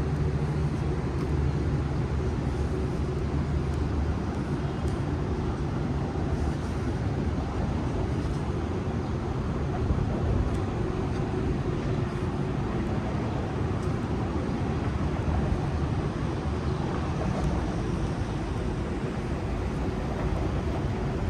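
City street traffic: a steady wash of passing vehicles, with a nearby engine's low hum that fades after about four seconds.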